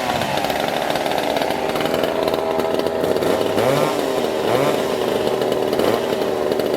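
Racing chainsaw engine running steadily at high speed, with a couple of brief pitch rises about four seconds in.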